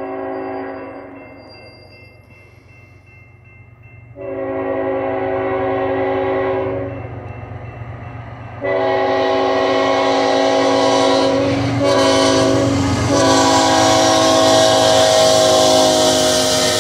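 Freight locomotive's air horn sounding a loud chord of several notes: a long blast, a second long blast, then a long, a short and a long one, the pattern of a grade-crossing warning. Under the last part the train's approach noise rises, wheels and rails hissing and rumbling louder.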